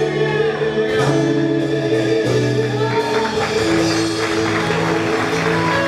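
Worship band music, held chords over a steady bass with a long sustained note. A light high shimmer of tambourine or cymbal joins about three seconds in.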